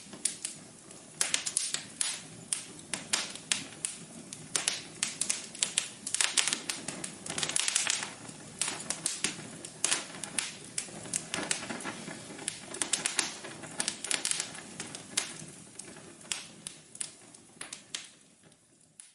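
Wood fire crackling in a fireplace: irregular sharp pops and snaps, several a second, over a soft low hiss of burning. The crackles thin out near the end.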